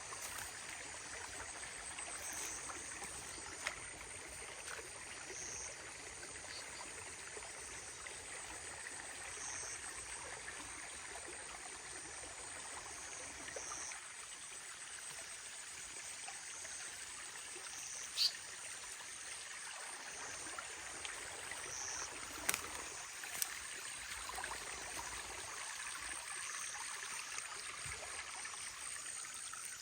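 Outdoor ambience: a steady hiss under a continuous high-pitched insect trill, with faint chirps repeating about every two seconds and a few sharp clicks.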